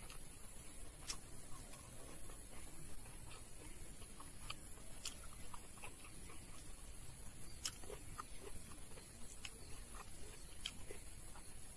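A person chewing food close to the microphone, with scattered soft mouth clicks and smacks a few times a second.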